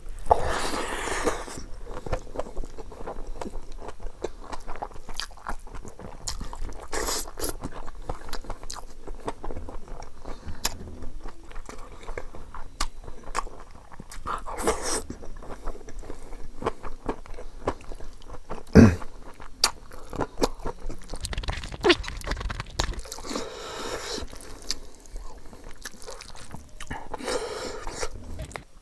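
Close-up wet chewing and lip-smacking of a person eating rice and curry by hand, with many small mouth clicks throughout and one sharp thump a little past the middle.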